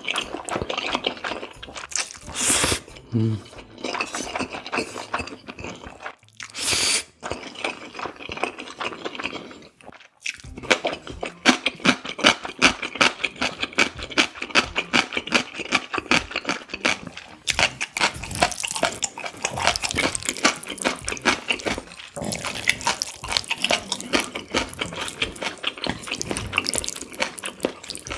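Close-miked wet eating sounds of spicy cold bibim noodles mixed with raw beef yukhoe: a few slurps in the first seconds, then dense wet chewing and smacking clicks, many per second, from about ten seconds in.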